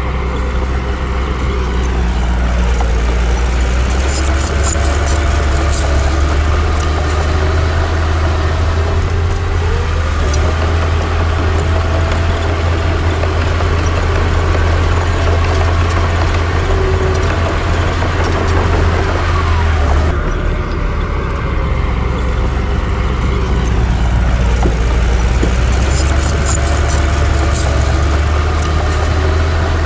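Bulldozer's diesel engine running steadily under load, its pitch sagging and rising a few times as it works. Two stretches of sharp metallic clicking come through, one a few seconds in and one near the end.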